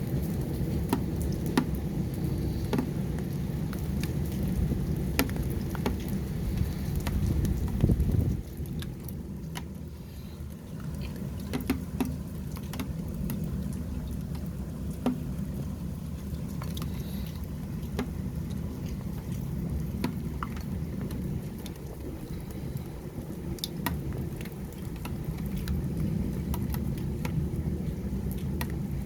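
Heavy storm rain, drops pattering and ticking on hard surfaces, over a low rumble that eases about eight seconds in.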